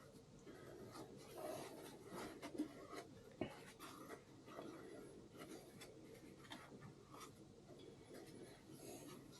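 Faint scratching and rubbing, with a couple of light sharp clicks a few seconds in.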